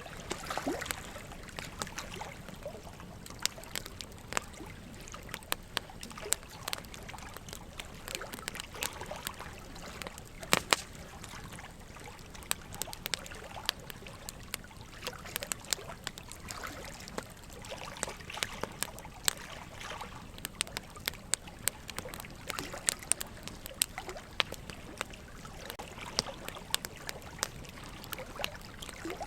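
Burning logs in a wood fire crackling, with frequent irregular sharp snaps and pops and a louder pop about ten seconds in, over a steady trickle of running water.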